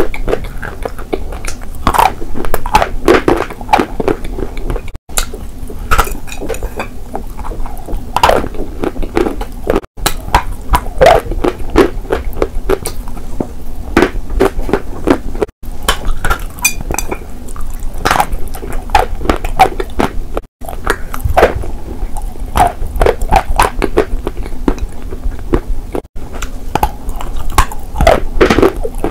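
Close-miked crunching and chewing of pieces of eating chalk: dense, crisp crackles in irregular clusters. Brief silent gaps cut in about every five seconds.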